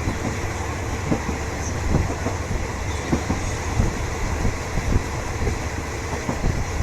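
Train running along the track, heard from a third-class passenger coach: a steady rumble of wheels on rail with irregular knocks and clatter as the coach rides over the track.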